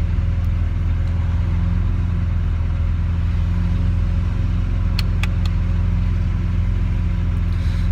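Lamborghini Aventador SV's V12 engine idling steadily, heard from inside the cabin, with a few faint clicks about five seconds in.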